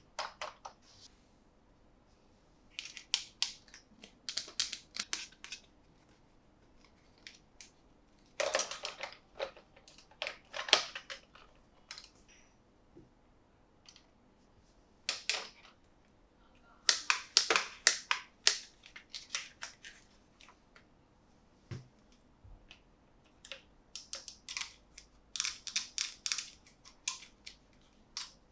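Hands handling a toy and its packaging: bursts of crinkling, clicking and scraping, separated by short quiet pauses.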